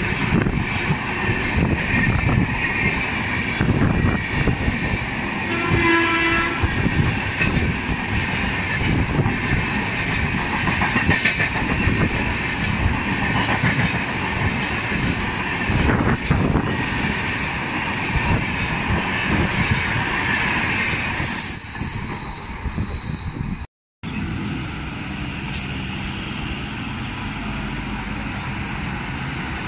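Passenger coaches of an express train passing at speed, with continuous rumble and wheel clatter and a brief horn about six seconds in. Near the end a high-pitched squeal rings out for about two seconds. After a sudden break, a steadier, quieter hum of an approaching electric freight locomotive follows.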